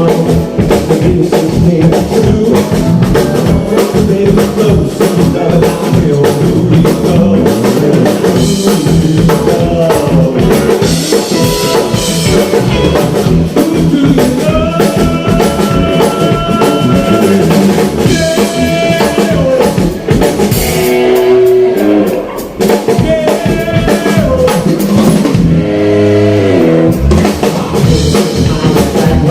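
A band playing music, with a drum kit keeping the beat under guitar and a melody line.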